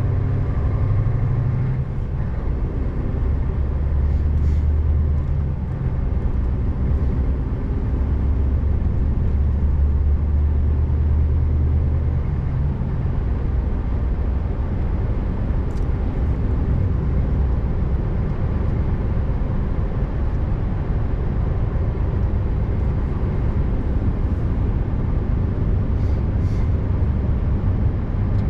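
Scania R590's V8 diesel engine running steadily as the truck drives, a low drone with road noise whose pitch shifts slightly now and then. A few faint clicks sound over it.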